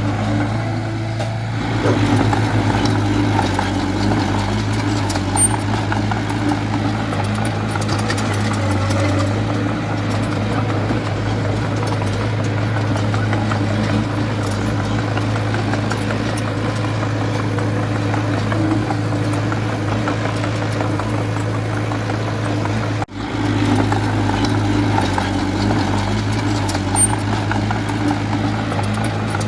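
Diesel engine of a small Komatsu D20A bulldozer running steadily, a low even drone, broken by a momentary dropout about three-quarters of the way through.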